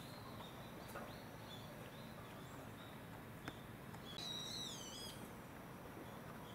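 A bird calling: a run of short high chirps, then a louder, wavering whistled call about four seconds in. A single sharp click comes just before it.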